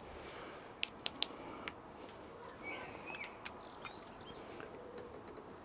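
Faint background hiss with a few sharp clicks in the first two seconds, and short bird chirps about three seconds in.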